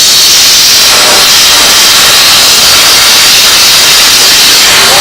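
Steam cleaner jet hissing steadily at full blast, a high, even rush of steam, blasting brake grease and dust off a wheel stud.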